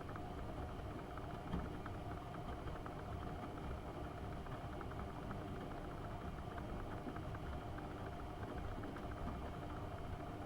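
AEG Öko-Lavamat 72520 front-loading washing machine running during a boil-wash programme with prewash: a steady motor hum and low rumble with a fine, rapid crackle throughout.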